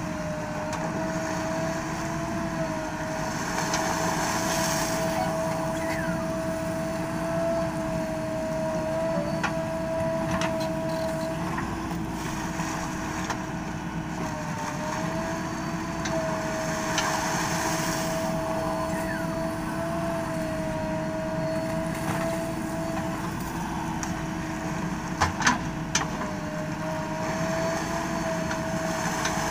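JCB backhoe loader working sand, its diesel engine and hydraulics running steadily with a constant whine that sags briefly in pitch a few times as the load comes on. A couple of sharp metallic knocks come near the end.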